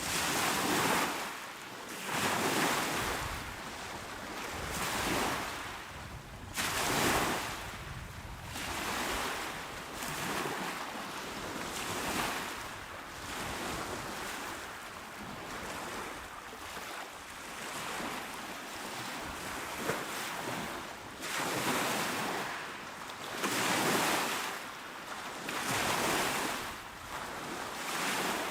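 Calm sea waves washing onto a shore, each swell of surf rising and falling every two to three seconds.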